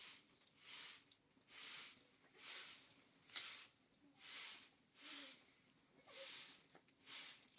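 Faint rhythmic swishing strokes, about one a second, steady throughout, with one sharp click a little over three seconds in.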